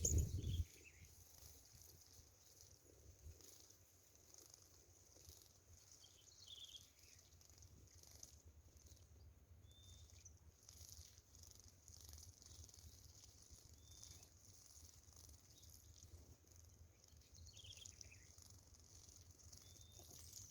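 Quiet outdoor ambience: a steady faint high hiss with a few short, faint bird chirps scattered through.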